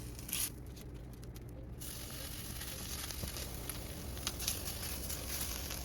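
Tortillas frying on a hot griddle: a steady sizzle with a few scattered crackles, fuller from about two seconds in.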